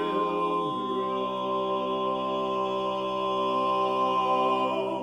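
Male barbershop quartet singing a cappella, holding a long sustained chord in the closing bars of a tag; the bass drops to a lower note about a second in while the upper voices hold.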